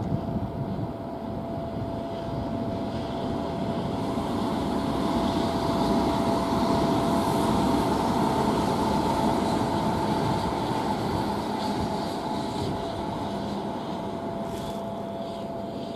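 Hanshin electric train running along an elevated viaduct some distance off. Its rumble grows louder toward the middle and fades toward the end.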